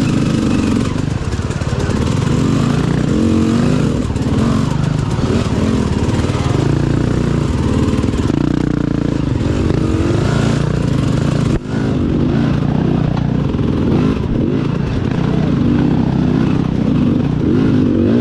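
Dirt bike engine running hard and revving up and down as it is ridden, its pitch rising and falling. It drops out for a moment a little past halfway.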